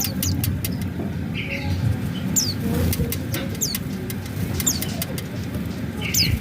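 White-eyes giving short, high call notes that slide downward, about four times, with scattered sharp ticks over a steady low background rumble.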